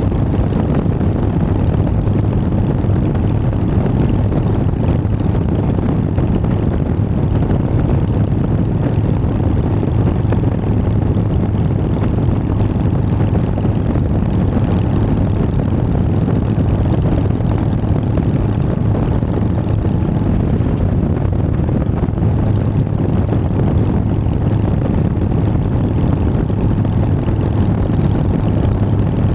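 Harley-Davidson Sportster's air-cooled V-twin engine running steadily while cruising, its exhaust note holding an even pitch throughout.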